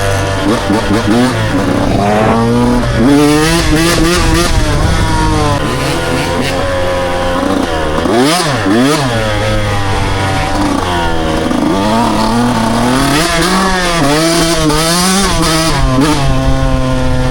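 Dirt bike engines revving up and down repeatedly as the bikes ride, with a sharp rise and fall in pitch about halfway through. A second engine runs at a steadier pitch underneath.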